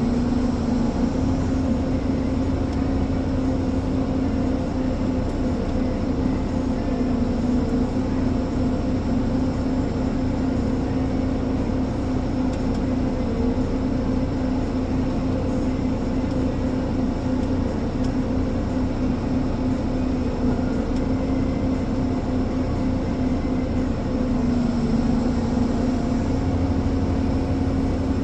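Ponsse Elephant forwarder's diesel engine running steadily, a loud even drone with a strong hum that shifts slightly about 25 seconds in.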